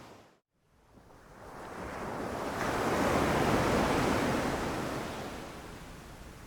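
Ocean surf: after a brief dropout to silence just after the start, one wave swells in over a couple of seconds, peaks in the middle and washes back out.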